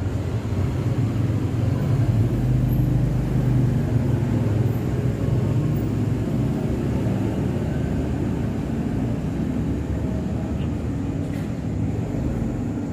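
Steady low engine rumble, swelling louder a couple of seconds in and then easing back.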